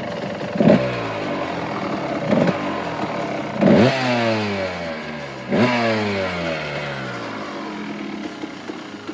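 Kawasaki KDX220R two-stroke dirt bike engine revved in four quick throttle blips, each rising sharply and then falling away. The third and fourth blips are the loudest, and the engine settles back down near the end.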